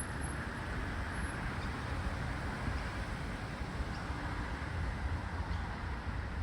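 Brown bunyip cicada (Tamasa tristigma) calling, one steady unbroken drone, over a low rumble.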